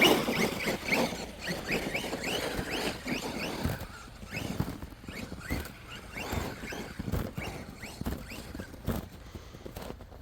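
Electric RC truck driving on snow and ice, its motor whining in many short rising bursts as the throttle is pulsed and the tires spin, with scattered knocks from the chassis and the tires. It is busiest in the first few seconds.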